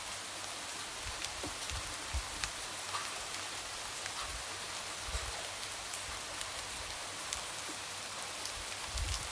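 Light rain: a steady hiss of falling rain with scattered drops tapping, and now and then a soft low thud.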